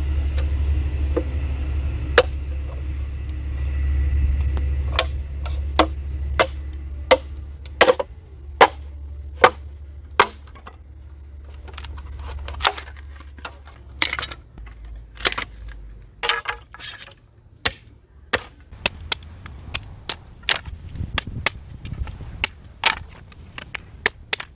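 Wood being chopped: a run of sharp, irregular knocks, about one or two a second. A low rumble runs underneath for the first half.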